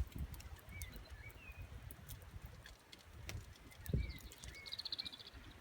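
Faint birdsong at dusk: a few short chirps, then a brief rapid trill near the end. Scattered small clicks and a low rumble run underneath.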